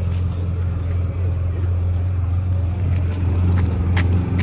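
A steady low engine drone with no change in pitch, typical of a boat or vehicle engine running.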